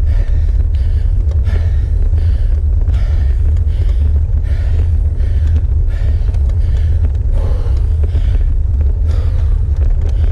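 A cyclist panting hard, about two heavy breaths a second, from the effort of a steep climb. Under the breathing is a steady, loud low rumble of wind on the microphone.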